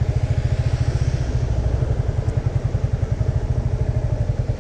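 Single-cylinder motorcycle engine running slowly with a steady, even low beat of about twelve pulses a second.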